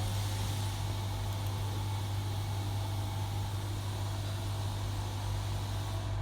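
Powered-up CNC stepper motor system giving off a steady low hum with hiss, the unexplained weird sound that comes on when the controller box is switched on. The hiss drops away near the end while the hum carries on.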